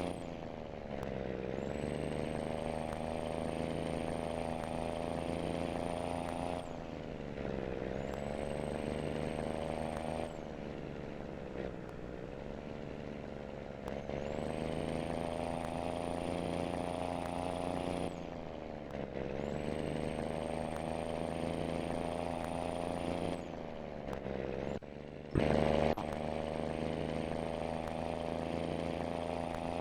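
Scania truck engine pulling steadily under load, its pitch dropping sharply every few seconds as it shifts up through the gears, with a high turbo whistle that fades at each shift and climbs back as the engine pulls again. A brief louder burst comes about 25 s in.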